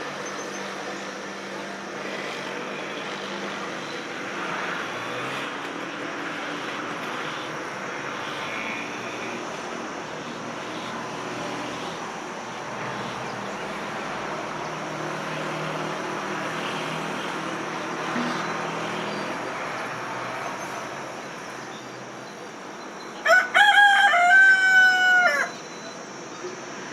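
Steady background hum, then near the end a rooster crows once, a loud pitched call lasting about two seconds.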